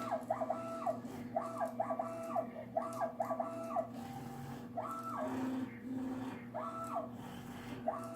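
Stepper motors of a custom rotary CNC machine running a G-code program: a whine that ramps up in pitch, holds, then ramps down with each move. The moves come in quick pairs at first and grow more spaced out, over a steady low hum.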